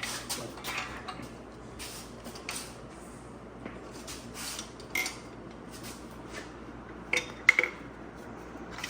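Irregular metal clinks and taps of tools against engine parts while a piston is fitted into the block. Near the end comes a louder cluster of clinks that ring briefly.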